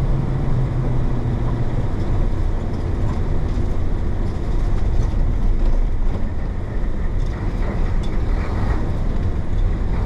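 1966 Isuzu BXD30 bonnet bus's DA640 inline-six diesel engine running as the bus drives along: a steady low rumble that dips slightly about six to seven seconds in.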